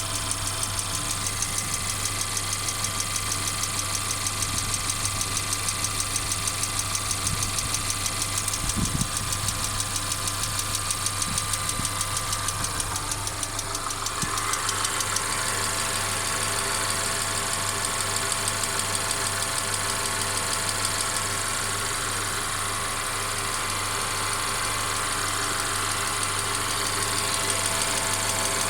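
Mercedes CLA 250's 2.0-litre turbocharged four-cylinder engine running steadily with a constant rattle. Over it, a fast, even clacking comes and goes and stops about halfway through.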